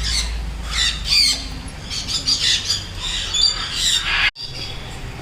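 Many birds squawking, short harsh calls overlapping one another in quick succession; the sound drops out for an instant about four seconds in.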